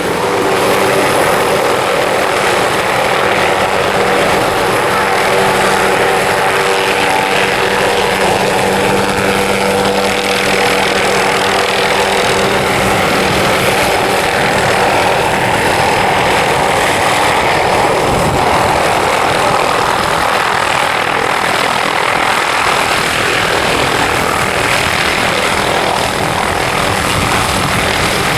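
Helicopter arriving: a steady engine and rotor hum that gives way to a broader rushing noise about halfway through.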